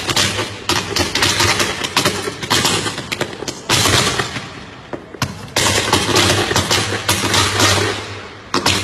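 Firecrackers bursting in rapid, uneven volleys: loud sharp cracks several times a second with dense crackling between them, easing briefly about five seconds in before picking up again.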